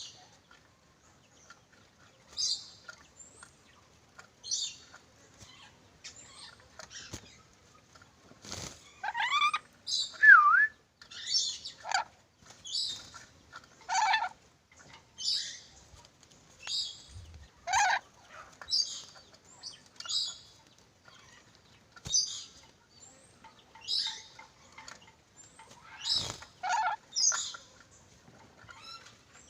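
Nuri dora parrot calling: short, harsh, high-pitched calls repeated about every one to two seconds, a few of them sliding down lower in pitch.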